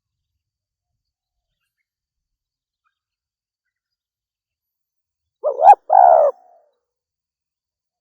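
Female spotted dove giving one short two-note coo after about five seconds of silence, the first note rising and the second a little longer.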